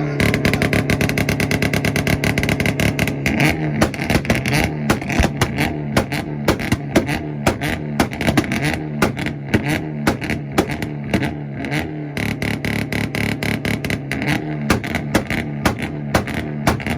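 Hyundai Veloster's engine held on its two-step launch limiter, a steady buzzing rev. From about three seconds in, rapid exhaust pops and crackles run over the held revs.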